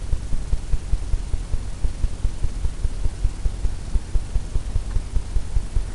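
A low, throbbing hum with rapid, uneven pulses, the same as runs under the speech either side.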